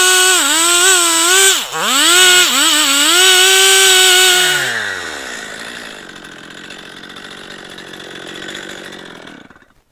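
Chainsaw on an Alaskan-style chainsaw mill running at full throttle through a log, its pitch dipping briefly a few times under load. About five seconds in, the throttle is released and the engine falls to a low idle, then it shuts off near the end.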